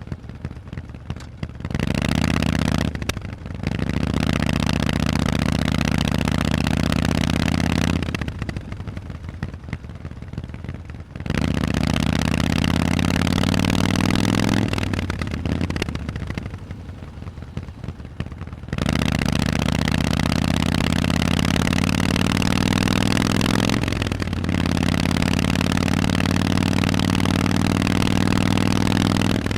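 Harley-Davidson Forty-Eight's 1200 cc V-twin through Vance & Hines exhausts, ridden on the road. It pulls hard in long stretches, with short dips at gear changes about 3 and 24 seconds in, and drops back off the throttle three times to a quieter, rougher exhaust note.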